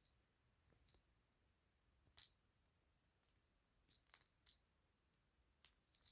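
Near silence broken by a few faint, sharp clicks at irregular intervals, the loudest a little past two seconds in and another right at the end.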